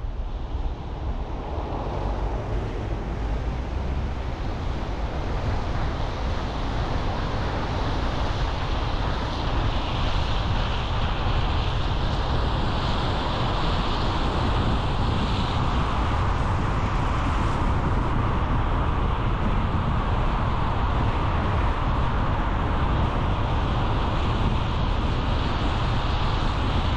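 Car driving at road speed: a steady rush of tyre and wind noise with a low rumble, growing a little louder over the first few seconds and then holding.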